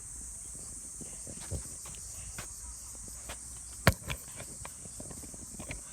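Steady high-pitched chorus of insects, with scattered soft footsteps and small knocks and one sharp click about four seconds in.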